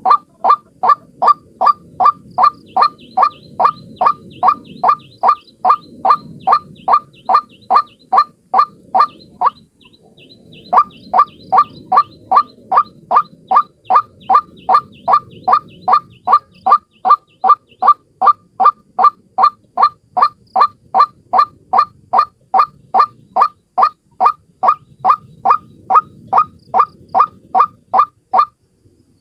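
A single white-breasted waterhen (ruak-ruak) calling a fast, steady series of loud, harsh notes, about three a second, with a brief break about ten seconds in. It is a bird-trapping lure call.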